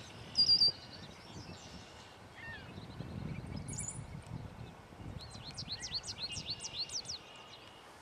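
Wild birds calling: a short, loud high call about half a second in, a few scattered faint calls, then a quick run of about a dozen high chirps in the second half.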